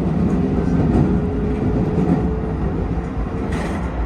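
Keisei 3000 series electric train running, a steady low rumble of wheels and motors with a steady hum over it, and a short hiss about three and a half seconds in.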